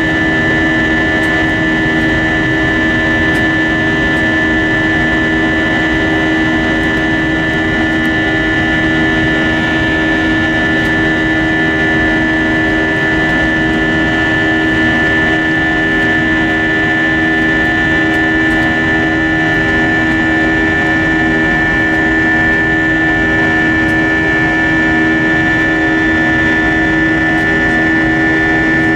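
Steady drone inside an Airbus A320-232 passenger cabin in flight, from its IAE V2500 turbofan engines and the airflow, with steady whining tones and no change in pitch or level.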